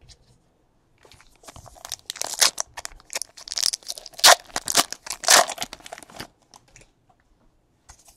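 A trading-card pack wrapper being torn open and crinkled by hand, a few seconds of crackling and ripping.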